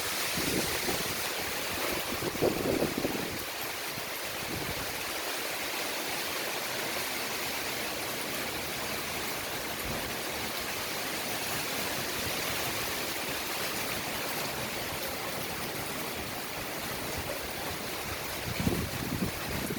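Strong storm wind blowing as a steady, broad rushing hiss. Low buffeting thumps of gusts hitting the microphone come in the first few seconds and again near the end.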